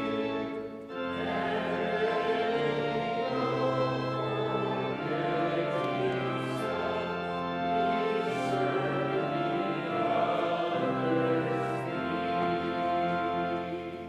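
A hymn sung by a group of voices over steady held chords, the notes changing about once a second, with the last chord dying away near the end.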